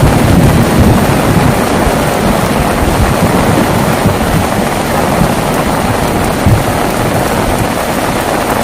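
Heavy rain falling steadily, with a low rumble of thunder that dies away over the first couple of seconds. A brief thump comes about six and a half seconds in.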